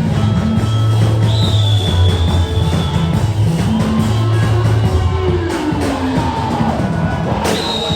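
Church praise music from a live band, with bass notes that change every second or so under sustained keyboard tones, and some faint singing.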